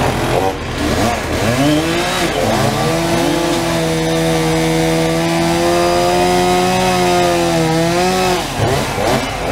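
Gas chainsaw revving up and down, then held at a steady high pitch for about five seconds while cutting wood, dropping off near the end before revving again.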